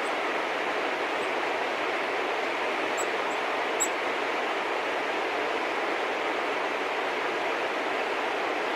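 Steady outdoor rushing noise, even and unchanging, with a few faint high chips from small birds about three to four seconds in.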